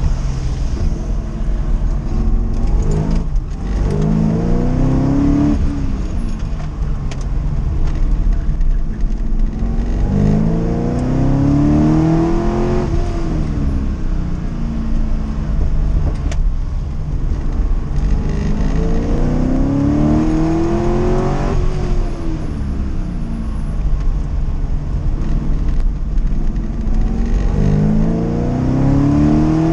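1979 Corvette's V8 engine heard from inside the cabin under hard acceleration: the revs climb for two or three seconds and then fall away, about four times, over a steady low rumble and road noise.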